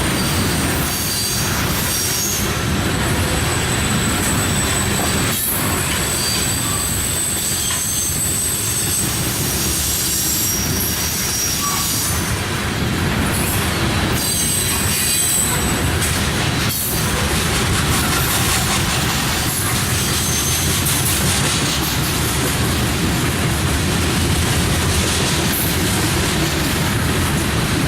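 Railroad cars rolling past with a steady rumble, the wheels squealing in high-pitched bursts that come and go over the passage.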